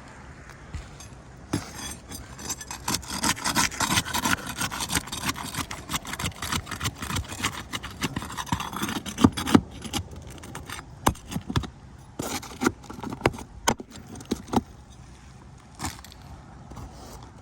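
Asphalt roof shingles being scraped and pried off the roof deck: dense scraping and crackling for the first half, thinning to scattered clicks and knocks.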